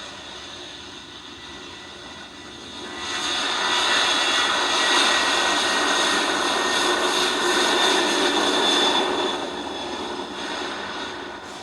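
Jet airliner passing close by, its engine noise swelling sharply about three seconds in, staying loud for several seconds, then fading, with a steady high whine over the rush.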